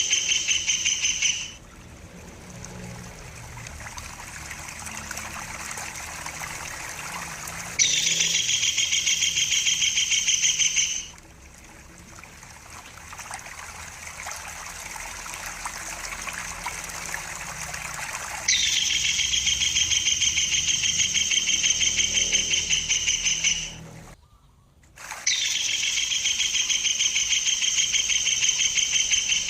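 Stork-billed kingfisher (tengkek buto) giving long, rapid trilling calls in four bursts of several seconds each. A steady trickle of running water fills the gaps between them.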